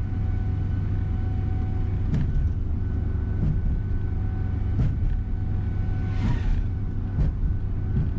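Coach bus engine and road noise heard from inside the cabin while under way: a steady low rumble with a faint whine and a couple of short knocks.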